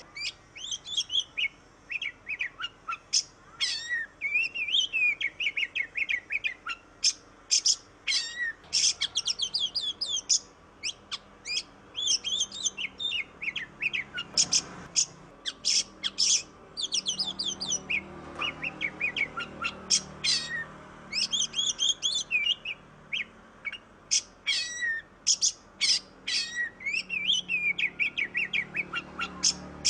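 Oriental magpie-robin (kacer) in full song: a fast, varied run of whistles and chattering notes, with brief pauses between phrases.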